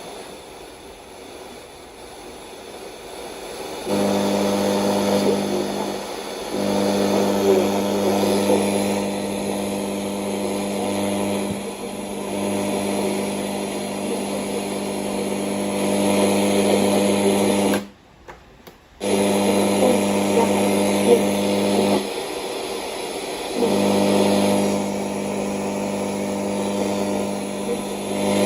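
A small electric power tool's motor running at a steady pitch. It starts about four seconds in and stops briefly twice before running on.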